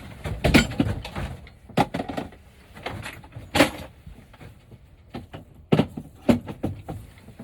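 Irregular knocks and clunks of tools and wood being handled and set down, about five loud strikes spread unevenly with lighter clatter between them.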